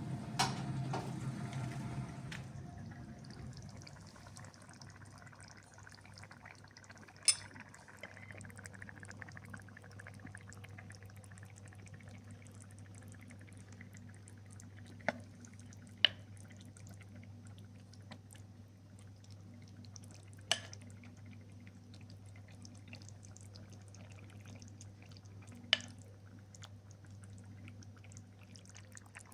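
Liquid pouring for the first two seconds or so. Then a quiet, steady low hum with five sharp, separate taps or drips spread over the rest.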